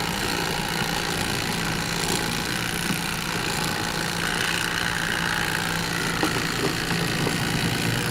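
Electric fillet knife running with a steady motor buzz as fish are being filleted.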